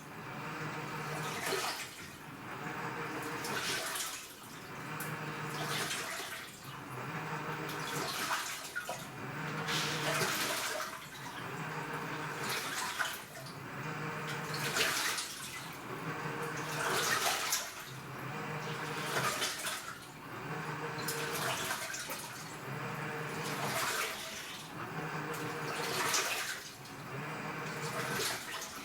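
AQUA top-loading washing machine with a direct-drive inverter motor agitating a load in water. The motor hums in short runs about every two seconds, stopping and reversing between them, each stroke churning and splashing the water.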